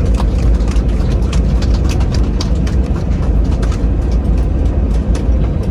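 Cabin noise of an Airbus A321-211 taxiing after landing: a loud, steady low rumble from the engines and the wheels rolling over the taxiway, with many light clicks throughout.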